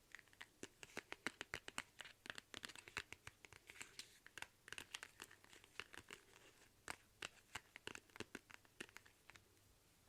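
Close-miked ASMR handling sounds: quick, irregular crackles and clicks, many a second, like crinkling or tearing.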